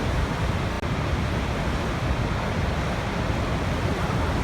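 Waterfall: a steady, deep rush of falling water with no breaks.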